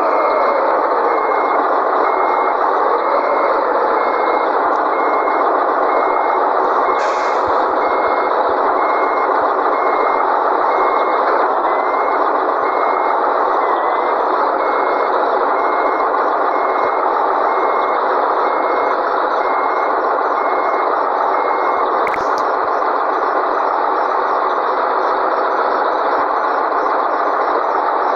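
Truck reversing alarm beeping at a high pitch, about once a second, over the steady running noise of a Scania 113G truck; the beeping stops with a click about three quarters of the way through.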